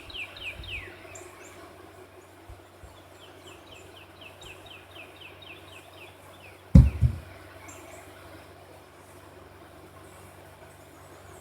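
A songbird singing rapid trills of short down-slurred notes, about four or five a second, in two runs. A single loud low thump about seven seconds in.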